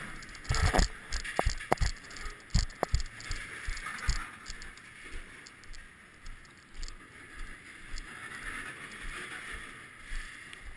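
Freight train cars rolling past on the rails with steady wheel noise, and a cluster of sharp knocks and crunches in the first few seconds as a rider steps off the moving car onto gravel ballast.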